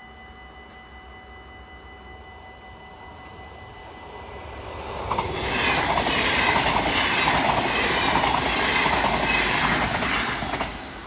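An NS double-deck electric passenger train passes at speed: its rolling noise builds about four seconds in, stays loud for about five seconds, then drops off sharply near the end as the last carriage goes by. Under it, the level crossing's warning bell rings on in steady tones.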